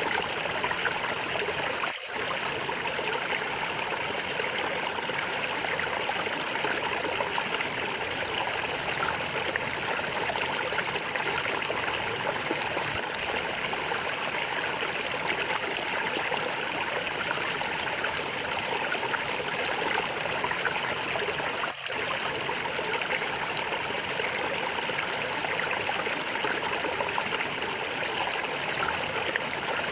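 Flowing water gurgling steadily, briefly dipping twice.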